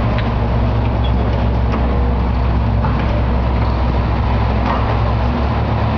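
Heavy demolition machinery running steadily with a low engine drone, with scattered faint knocks and crunches.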